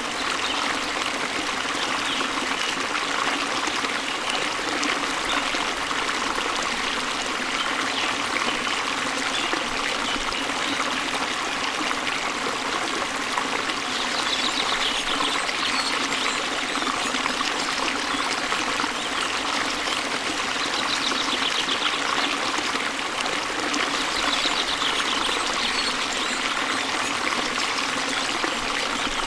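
Stream water running and trickling steadily over rocks, an even, unbroken rushing murmur.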